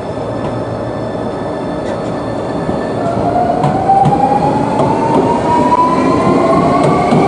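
Electric train pulling away, its motor whine rising steadily in pitch from about three seconds in over a running rumble.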